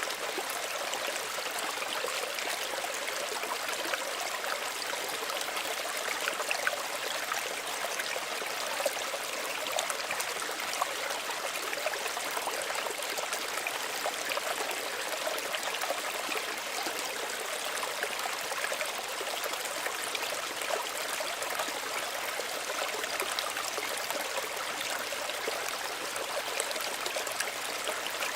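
Small stream running and trickling steadily over stones, a continuous light splashing and babbling with little low rumble.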